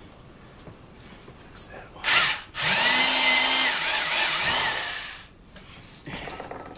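Old corded Black & Decker electric drill boring through plywood: a short burst, then about two and a half seconds of drilling, the motor's pitch rising as it spins up and dropping as it runs down.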